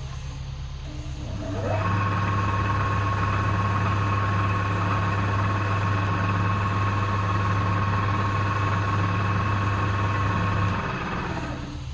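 Electric motor of a woodturning workshop machine switched on about a second and a half in, spinning up with a brief rising whine, then running steadily with a low hum and a high whine. It is switched off and runs down about a second before the end, leaving a low background hum.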